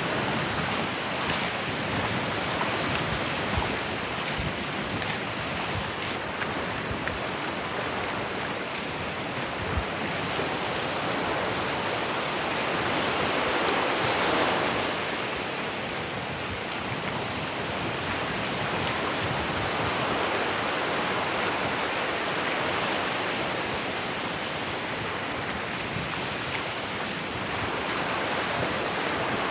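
Ocean surf washing onto a sandy beach: a steady rush of water, with one wave swelling and breaking about halfway through.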